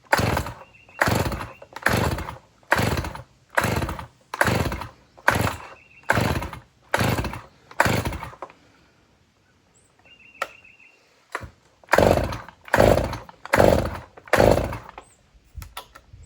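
Stihl MS310 chainsaw's recoil starter rope pulled over and over, about ten quick pulls, a pause of a few seconds, then four more. The engine never fires; its fuel has been drained.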